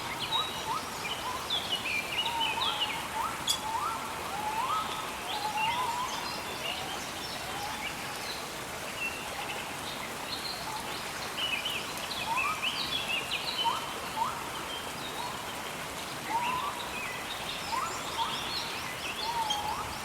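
Birds singing and chirping over the steady hiss of gentle rain: short rising calls repeated again and again, with higher chirps above them.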